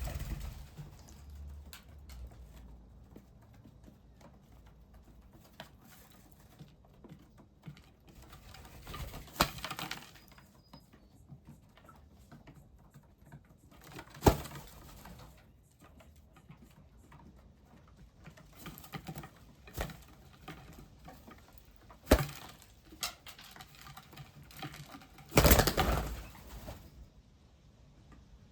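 Birds at a bird bath and feeder: scattered sharp taps and a few short bursts of rustling noise, the longest lasting about a second near the end, with an occasional faint bird call.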